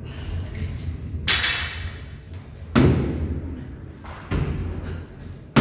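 Heavy thuds on a gym floor during a workout, about one every second and a half, after a sharper clattering hit about a second in, over a low steady hum.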